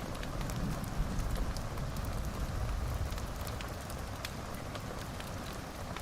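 Wood fire burning in a fireplace: scattered crackles and pops over a steady low rumble of the flames.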